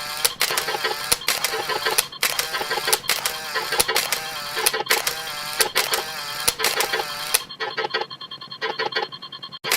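Camera shutter snap sound effects firing in quick succession, layered over other stacked sound effects, including a synthesized voice. Near the end the snaps thin out and a repeating electronic ringing tone comes through.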